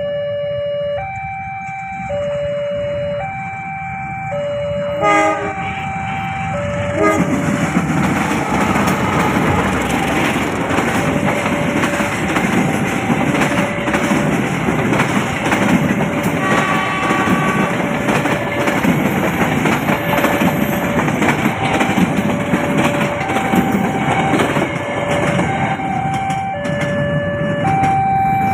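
Level crossing warning alarm sounding two alternating tones, each held about a second. A brief loud blast comes about five seconds in. From about seven seconds in, a train passes with the rumble and clatter of its wheels over the rails while the alarm keeps sounding.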